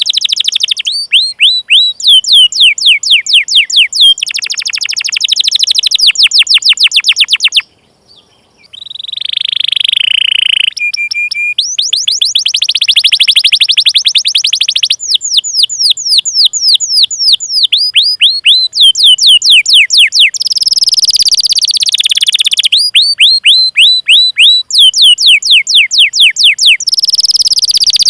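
Domestic canary singing a long rolling song: fast runs of high, downward-sweeping 'cuit cuit' chirps strung into trilled phrases, with a brief pause about eight seconds in and a short held note soon after.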